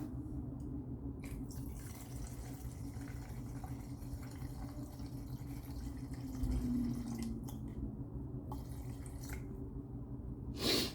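Paint reducer being poured into a graduated mixing cup of automotive paint: liquid trickling and dripping over a steady low hum, with a short knock near the end.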